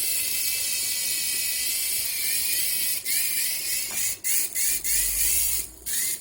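Small electric motor and rotor of a toy remote-control helicopter whining steadily, then, from about halfway, cutting in and out in short surges that each rise in pitch as the battery runs down.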